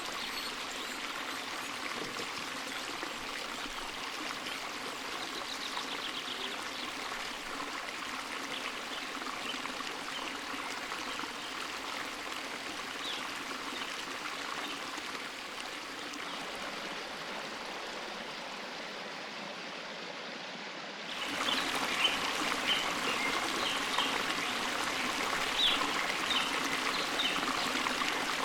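Forest stream running steadily over rocks. About 21 seconds in, the sound jumps abruptly louder and brighter, with many short sharp ticks over the rush of water.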